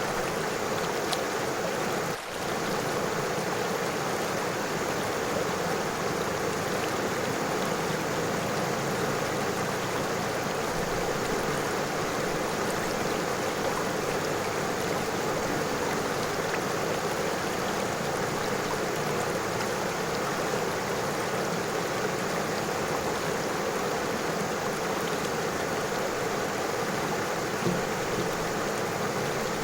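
River water flowing over stones, a steady rushing babble, with a brief drop in level about two seconds in.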